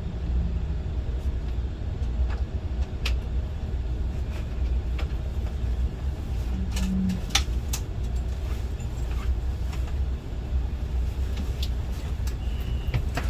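Cabin noise aboard an SRT high-speed train (SR Class 120000 EMU): a steady low rumble with scattered light clicks and rattles, and a short high tone near the end.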